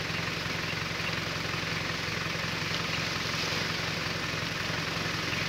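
A 4x4's engine idling steadily, an even low hum with no revving.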